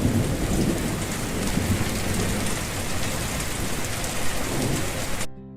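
Heavy rain falling steadily, a dense even hiss, which cuts off abruptly near the end as soft guitar music begins.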